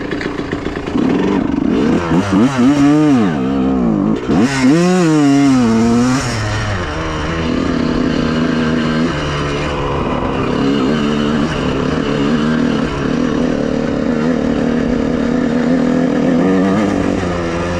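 Honda CR125R's single-cylinder two-stroke engine revving hard twice, its pitch sweeping up and down sharply a couple of seconds in, then running more steadily with small steps in pitch.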